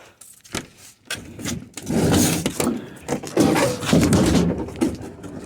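A refrigerator being walked by hand across the ground, rocked from corner to corner, giving irregular scraping and rumbling that grows louder about two seconds in.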